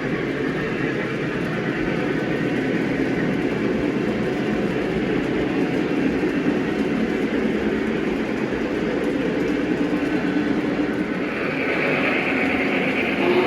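Model train running on the layout track: a steady rumble of wheels and motor, with a higher sound joining near the end.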